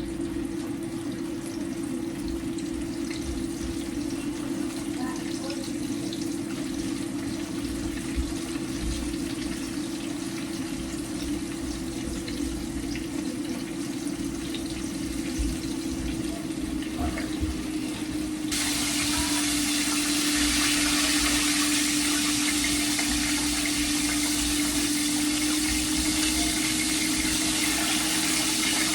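Chicken frying in hot oil, a steady sizzle over a steady hum. About two-thirds of the way through, the sizzle suddenly turns louder and brighter.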